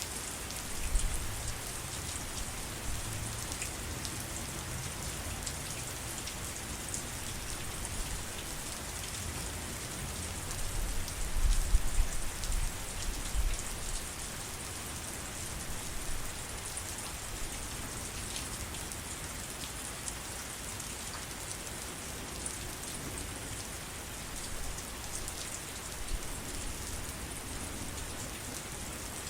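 Steady heavy rain, an even hiss of many drops falling on surfaces, with a brief low rumble swelling near the middle.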